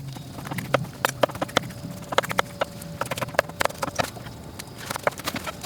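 A run of sharp, irregular clicks and knocks, several a second.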